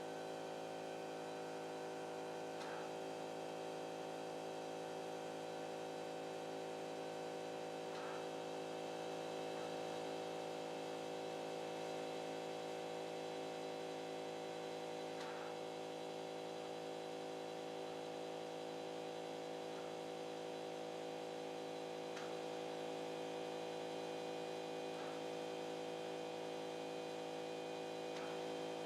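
Stepper motors of a CNC pen plotter running steadily as it draws, a constant multi-tone whine and hum, with a few faint ticks every few seconds.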